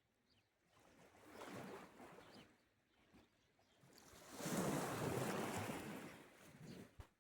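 Small sea waves breaking and washing up the shore twice, the second wash louder and longer, followed by a sharp click near the end.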